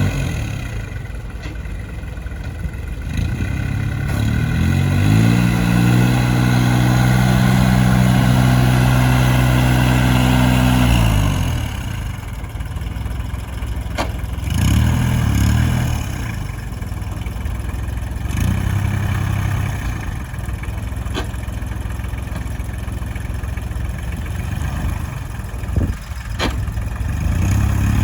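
Goldini 25DT compact tractor engine idling, then revved up about four seconds in and held there for several seconds before dropping back to idle. It gives a brief blip of the throttle around the middle, idles again, and starts to rise once more at the end, with a few sharp clicks along the way.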